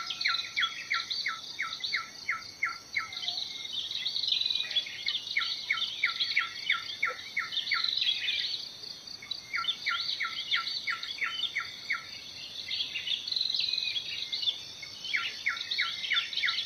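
Birds singing and chirping: a continuous, busy high chatter, with a series of quick, evenly spaced notes, about three a second, that comes back four times, every five seconds or so.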